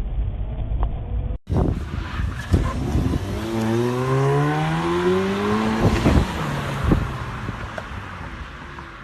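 Car engine accelerating, its pitch rising steadily for a couple of seconds over road noise, with a few sharp knocks.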